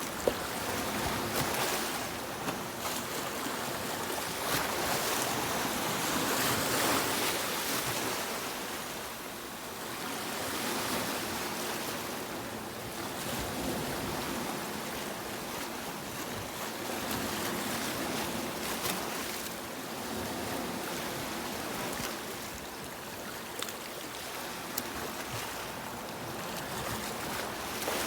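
Sea waves washing onto a beach, a steady hiss of surf that swells and eases every few seconds.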